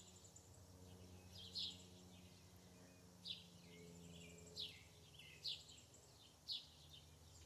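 Birds chirping faintly: about six short, high chirps, each sliding down in pitch, spaced a second or so apart.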